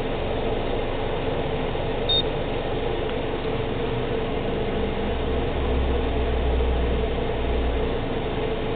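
2012 Subaru Outback's flat-four engine idling steadily under the car, with the engine warm and the CVT fluid at about 35 degrees for the level check. A short high beep sounds about two seconds in.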